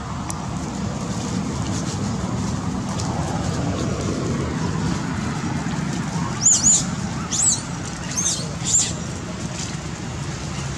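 Four short, high-pitched bird chirps, each rising and falling, come about two-thirds of a second apart starting about six seconds in. Under them runs a steady low rumble.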